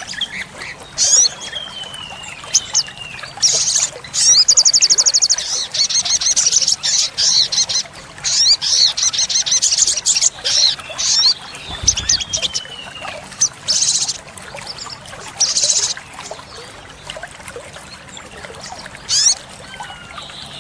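Olive-backed sunbird singing: sharp high chirps in quick bouts, a fast rattling trill a few seconds in, and thin falling whistles.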